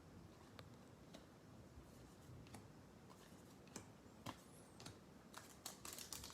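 Faint, scattered clicks and taps of baseball trading cards being handled and shuffled, coming more often near the end.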